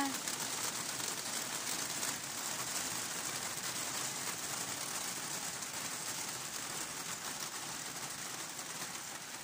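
Rain falling steadily in a sunshower, making an even hiss of many drops.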